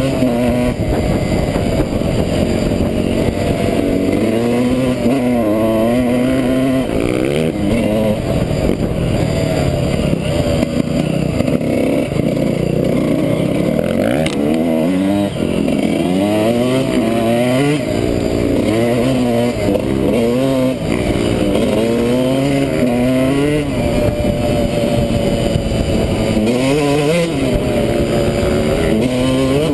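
Motocross dirt bike engine under hard riding, its pitch climbing and dropping back again and again as the throttle is worked.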